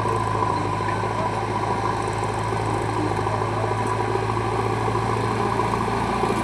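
A heavy machine's diesel engine running steadily at an even speed, with a constant low hum.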